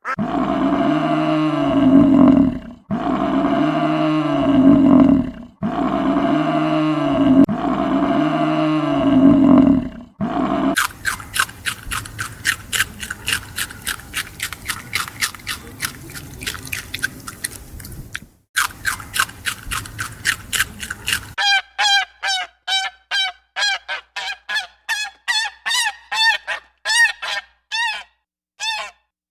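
Animal calls from three different clips: four identical long honking calls, each rising and then falling in pitch; then a fast, even train of short pulses for about ten seconds; then a run of quick, high, downward-sweeping chirps.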